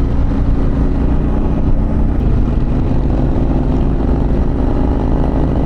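Harley-Davidson Pan America's V-twin engine running steadily at cruising speed, with wind rushing past.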